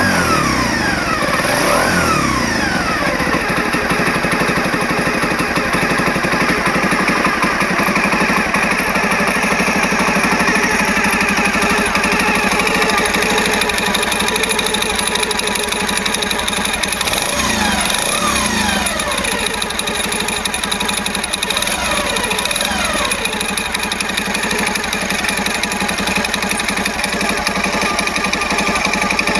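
Honda Dream 50's single-cylinder four-stroke engine, bored up to 89cc with a Takegawa kit, running steadily, with throttle blips whose revs fall away near the start and again a little past the middle.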